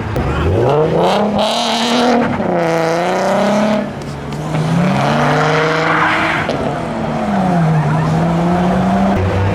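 A car engine revving hard. Its pitch climbs sharply in the first second or so, dips and climbs again twice, then settles to a steady lower note near the end. There is a brief hiss about a second and a half in.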